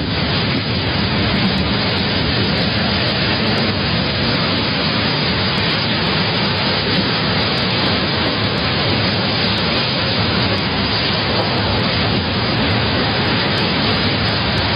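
Storm-force wind blasting over the microphone: a loud, steady rushing noise.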